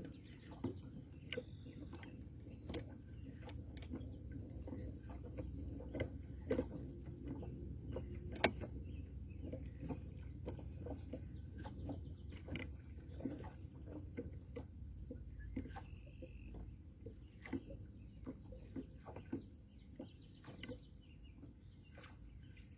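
Steady low rumble of wind and water around a boat, with scattered irregular clicks and knocks and a few short bird calls.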